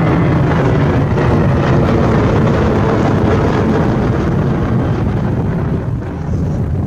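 Jet airliner engines heard at close range: a loud, deep, steady rumble with wind buffeting the microphone, easing briefly near the end.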